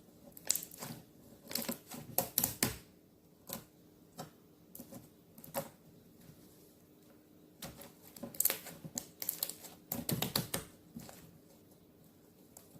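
Handmade glitter slime being played with by hand, making irregular bursts of sharp clicks and pops in clusters with short pauses between them.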